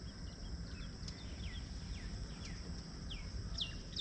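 Small birds calling: a run of short, downward-sliding whistles, one every few tenths of a second, growing louder near the end, over a steady high-pitched hum.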